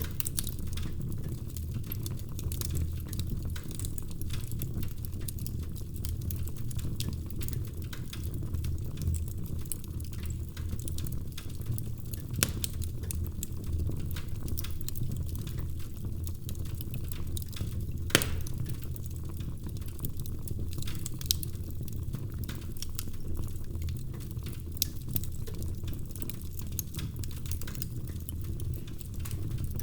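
Wood fire burning in a fireplace: a low steady rumble of flames with frequent small crackles and pops, and a couple of sharper snaps about twelve and eighteen seconds in.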